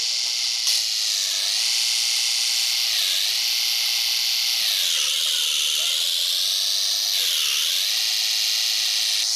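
A loud, high-pitched machine whine whose pitch dips and recovers four times, as if the machine were briefly loaded down.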